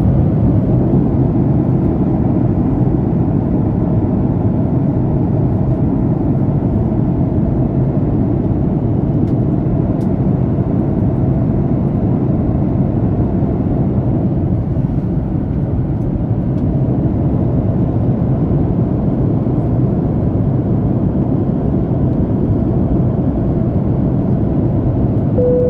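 Steady low rumble of an airliner cabin in flight, even throughout with no thunder claps. A short single tone sounds at the very end.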